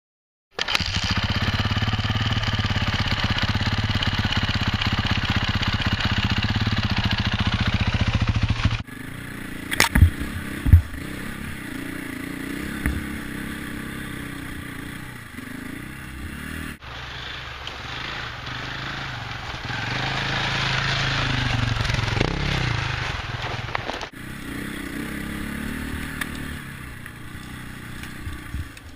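Enduro dirt bike engine running in a string of short clips. The first stretch is loud and steady, then the engine rises and falls in pitch as the throttle opens and closes while riding. There are two sharp knocks about ten seconds in.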